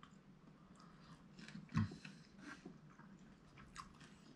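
Faint chewing of steak, with small wet mouth clicks and one louder thump just under two seconds in.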